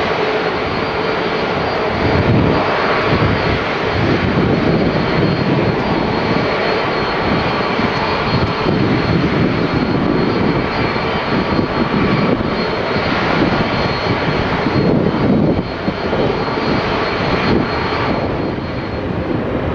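Airbus A330-300 airliner's jet engines running loud and steady, a dense roar with a faint high whine on top.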